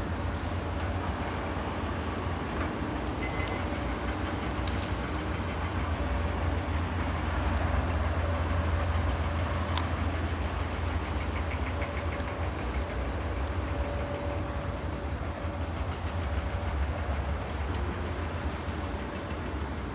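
Steady low rumble of a moving vehicle, with scattered faint clicks.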